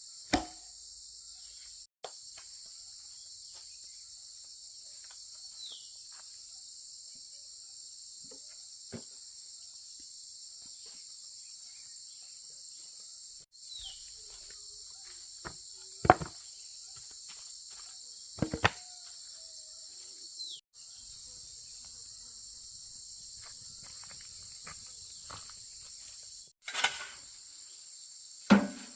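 Steady, high, shrill chorus of insects, crickets or cicadas, with a few sharp knocks now and then, loudest about halfway through and near the end.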